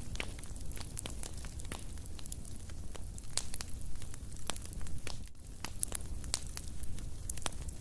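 Wood fire crackling in a fireplace: frequent, irregular sharp pops and snaps over a steady low rumble of the burning.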